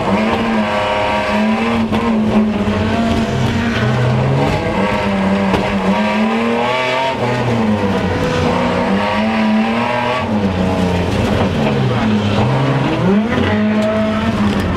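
BMW E30-bodied rally car engine heard from inside the cabin, driven hard. The revs climb and drop back repeatedly through gear changes and lifts of the throttle.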